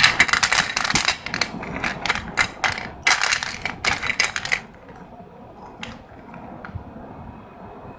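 Slate pencils being crushed: a dense run of crisp crunching and snapping for about four and a half seconds, then a quieter stretch with a few single cracks.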